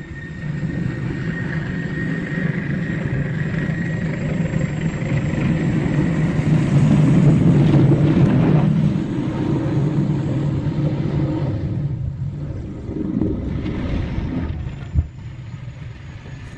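A vehicle engine rumbles with a thin steady whine over it. It grows louder to a peak around the middle, then fades away, and a single sharp knock comes near the end.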